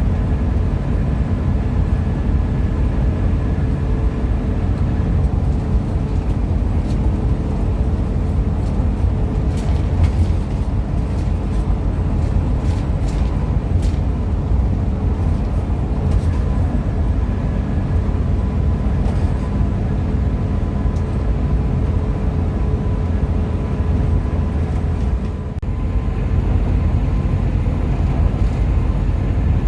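Hino RM 280-powered coach under way: a steady low rumble of engine and road noise with faint steady whine tones and a few light clicks in the middle.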